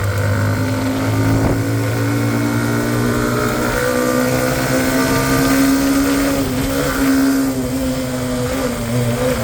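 Hero Xtreme 125R motorcycle's single-cylinder engine running steadily while being ridden, its note rising and falling slightly with the throttle.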